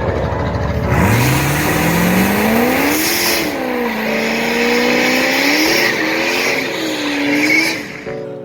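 Car engine revving: its pitch climbs over about two seconds, then wavers up and down at high revs under a loud hissing noise. Both drop away near the end.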